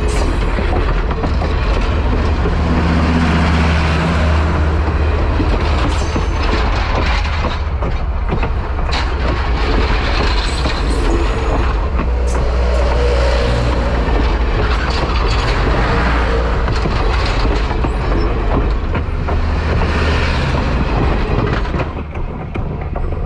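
Railway passenger coaches rolling past at close range: a steady heavy rumble of steel wheels on the rails, with sharp clicks and short high wheel squeals now and then. It drops off near the end as the last car passes.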